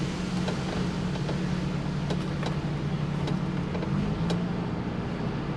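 HGV tractor unit's diesel engine running steadily at low revs while the articulated lorry reverses slowly, heard from inside the cab, with a few faint irregular clicks.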